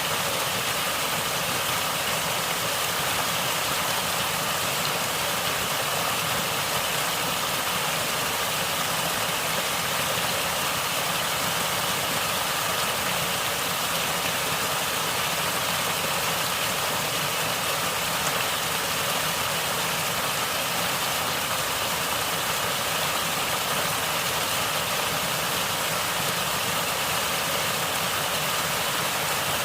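Natural running water gurgling in a steady, unbroken flow.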